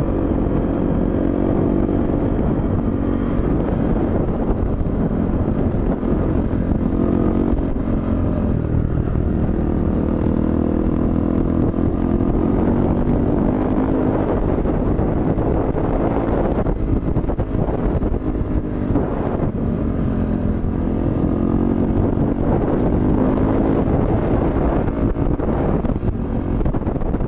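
Suzuki DR-Z dirt bike's single-cylinder four-stroke engine running under way, its revs rising and falling again and again as the throttle is opened and eased off.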